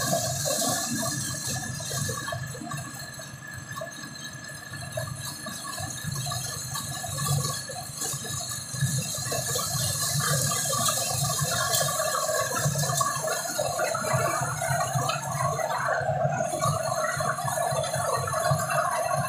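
Corn sheller machine running with a continuous mechanical rattle as it threshes corn. The sound dips about three seconds in, then builds back up and holds steady.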